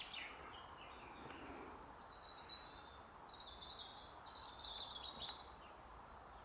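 A small songbird singing three short, high, twittering phrases in quick succession, a couple of seconds in, over a steady outdoor hiss.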